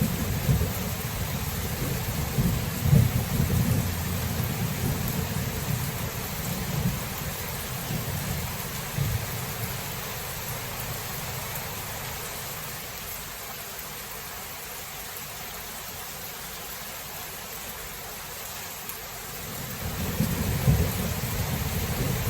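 Thunderstorm: steady rain with rolling thunder. A low rumble of thunder fills the first several seconds and dies away, leaving mostly the hiss of rain, and another roll of thunder builds near the end.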